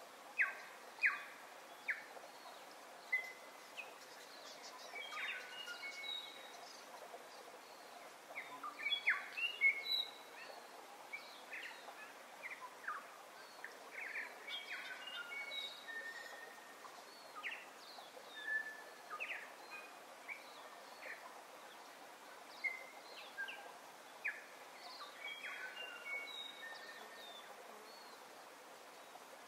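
Many birds chirping, short calls and quick whistled sweeps scattered throughout, over a steady background hiss.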